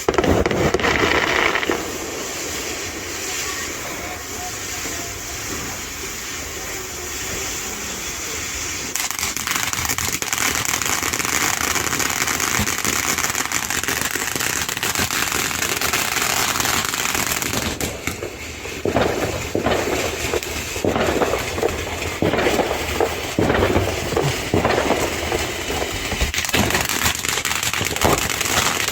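Ground firework fountains spraying with a steady hiss, which grows louder about nine seconds in. From about eighteen seconds on, it turns into dense crackling and popping.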